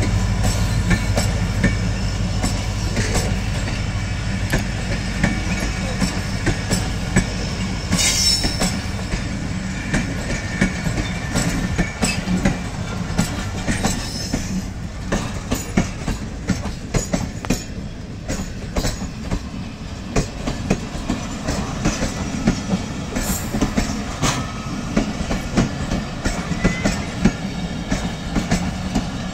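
Passenger train coaches departing and rolling past, the wheels clacking irregularly over rail joints. Brief wheel squeals come about eight seconds in and again later.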